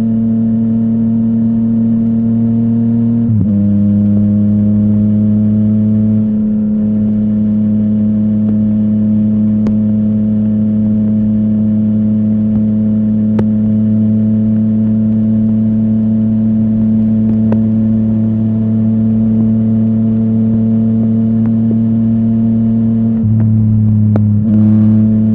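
Yamaha MT-09's three-cylinder engine through a full Akrapovic exhaust, running at a steady, even pitch. There is a short break and a small drop in pitch about three seconds in, after which the pitch creeps slowly up, and another brief change near the end.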